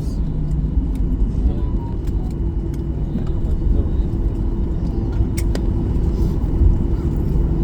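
Cabin noise inside a Boeing 737-800 on the ground after landing: a steady low rumble from the CFM56 engines and the airframe rolling, with a steady hum and a sharp click about five and a half seconds in.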